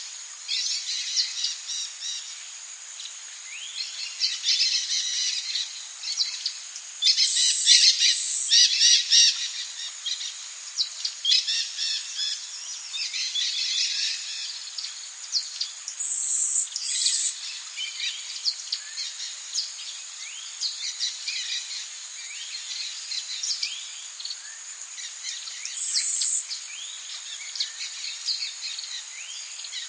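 Rainforest birds chirping and calling in a dense chorus over a steady high-pitched insect drone, with louder bursts of high buzzing calls three times.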